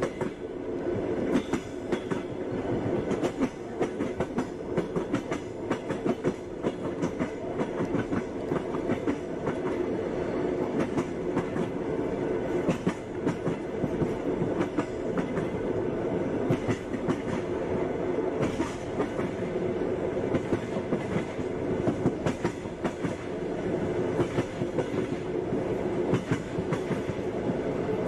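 A passenger train running along the track: a steady rumble from the cars with the clickety-clack of wheels passing over rail joints.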